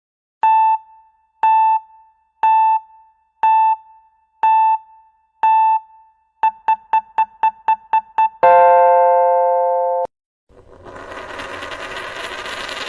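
Electronic countdown-timer beep sound effect: six single beeps about a second apart, then about eight quicker beeps, ending in a long held tone of about a second and a half. After a brief gap, a dense rush of noise swells in and keeps going.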